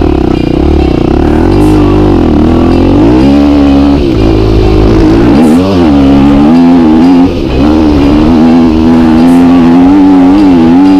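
Dirt bike engine running hard, its pitch rising and falling with the throttle as it is ridden.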